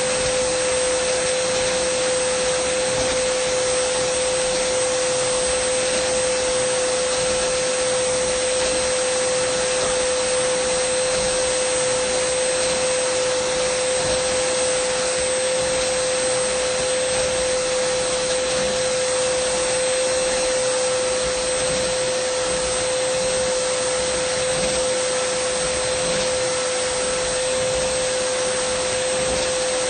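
Dyson vacuum cleaner running steadily: a constant whine over an even rush of air, with no change in speed.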